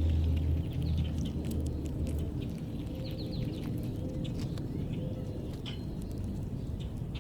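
Small backyard birds giving short chirps and quick chip notes, with scattered sharp ticks, over a steady low rumble.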